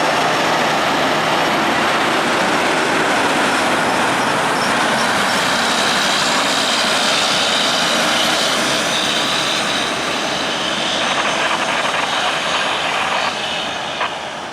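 Heavy vehicle running on the road: steady engine and road noise that drops in level over the last few seconds.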